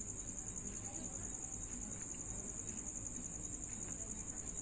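Crickets chirping: one continuous high-pitched, rapidly pulsing trill.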